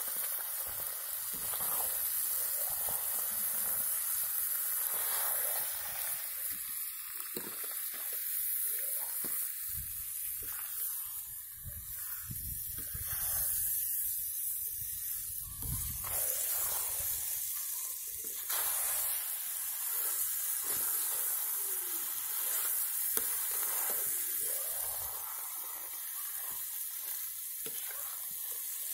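Chicken pieces and masala sizzling in a steel kadai, stirred and scraped with a metal ladle. A steady high hiss, with irregular scraping strokes of the spoon against the pan.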